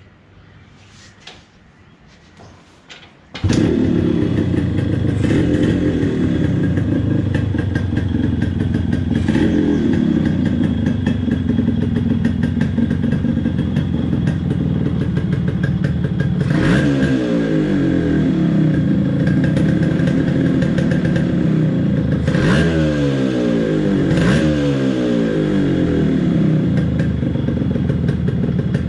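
Yamaha RX135 two-stroke single-cylinder engine starting about three seconds in, then running through its stock silencer, whose flute has been altered for a beefier exhaust note. In the second half the throttle is blipped a few times, the pitch rising and falling back each time.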